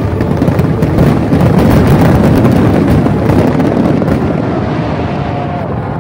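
Fireworks going off in a dense barrage of rapid crackling and popping. It is loudest through the middle and eases off near the end.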